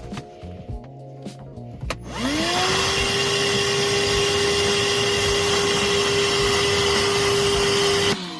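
Shop vacuum switched on about two seconds in: its motor whine rises and settles on a steady pitch over the rush of suction, and runs for about six seconds while clearing an AC condensate drain line. It is switched off near the end and winds down with a falling pitch.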